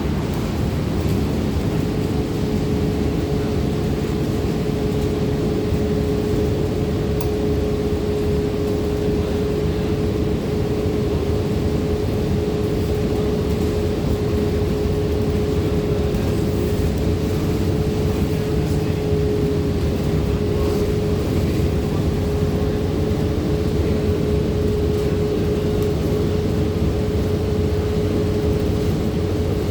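Inside a moving city bus: a steady drone of engine and road noise, with a constant hum running through it.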